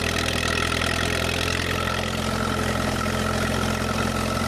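Vintage dump truck's engine running at a steady, even speed, with no revving.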